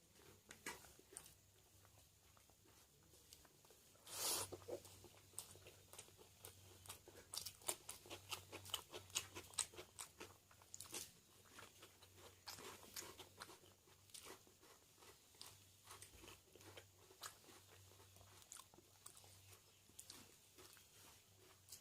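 A person chewing food up close, with wet mouth clicks and crunches. A louder crunch comes about four seconds in, and busier runs of chewing follow.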